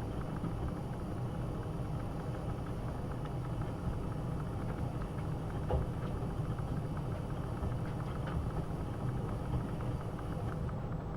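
AEG Öko-Lavamat 72520 front-loading washing machine running through a boil-wash programme: a steady low motor hum and drum rumble, with a few faint clicks and one short tick about halfway.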